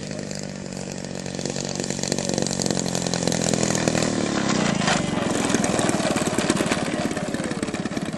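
Small two-stroke engine of a model airplane running; about four to five seconds in its pitch drops while it grows louder into a dense, rapid pulsing.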